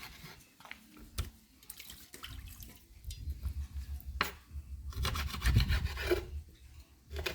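Rubbing and scraping noises with scattered clicks, over a low rumble that sets in about two seconds in and is strongest near the end.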